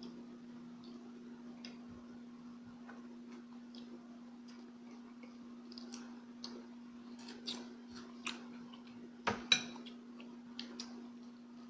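Close-miked eating sounds: chewing and small wet mouth and utensil clicks, scattered and irregular, with a sharper clack about nine and a half seconds in, over a steady low hum.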